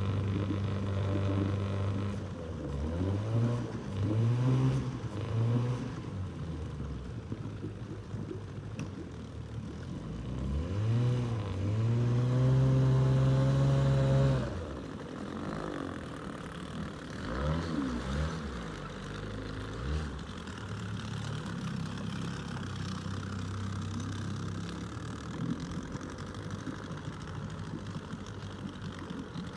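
Long-idle jon boat's outboard motor running after being revived: idling, blipped up in revs a few times with one longer held rev near the middle, then settling back to a steady idle.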